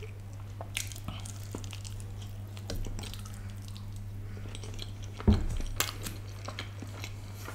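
A man chewing food close to the microphone, with small wet mouth clicks, over a steady low hum. About five seconds in there is a louder mouth sound as he licks his fingers.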